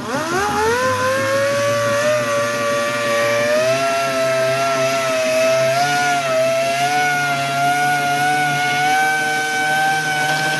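Air-powered dual-action sander with 80-grit paper spinning up over about the first second, then running at a steady high whine against the body filler, its pitch creeping slightly higher as it goes.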